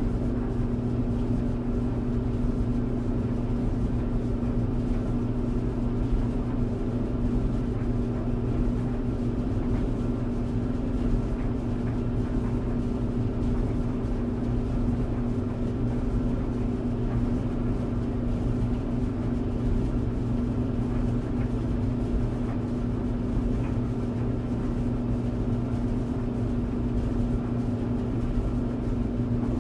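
Clothes tumble dryer running: a steady hum with a few constant tones over an even low rumble.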